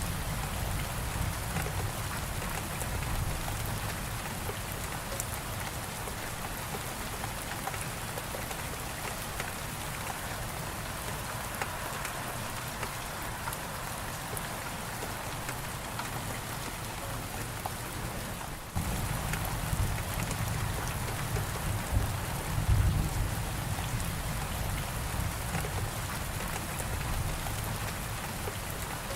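Steady heavy rain falling, an even hiss of drops on surfaces. A low rumble runs underneath, fades away in the middle, then comes back suddenly about two-thirds of the way through and swells a little near the end.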